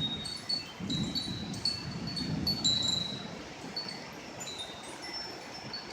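Wind chimes tinkling irregularly, with single high ringing notes struck every fraction of a second and left to ring out. Underneath, a low rushing noise swells and fades.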